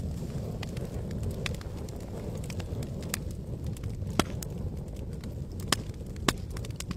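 Wood campfire burning: a steady low rumble with scattered sharp crackles and pops, three louder snaps in the second half.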